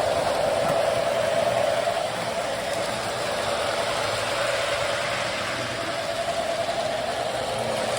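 Lionel toy train locomotives running around a layout: the steady whir of their electric motors and gears and the rumble of wheels on metal track, with a slight dip in level a couple of seconds in.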